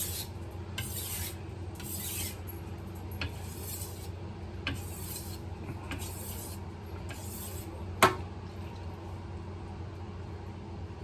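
Kitchen knife blade stroked across an 800-grit whetstone, a scraping hiss about once a second: stropping to take off the burr raised by sharpening. The strokes stop after about seven seconds, and a sharp click follows about a second later.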